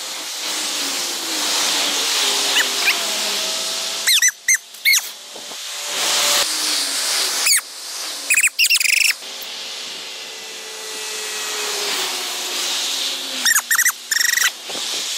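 Birds chirping in short bursts of quick calls, several times, over a steady rushing hiss that swells and fades.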